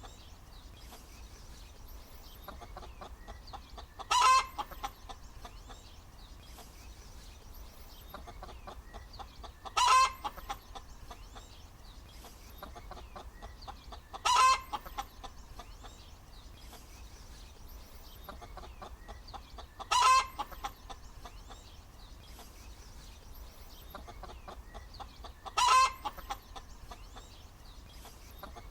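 Hen cackling: a loud, high call about every five or six seconds, five in all, with soft clucking in between.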